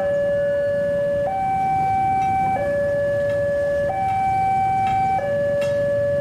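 Railway level-crossing alarm sounding a steady two-tone hi-lo warning, the tones swapping about every 1.3 seconds, over a low rumble: the crossing is signalling an approaching train.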